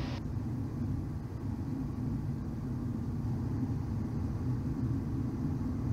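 Steady low rumble of airflow and twin turbofan engine noise inside the cockpit of a Cessna Citation XL business jet on short final approach.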